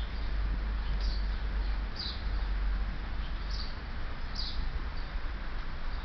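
Steady rain hiss, with a small bird giving short, high chirps about once a second.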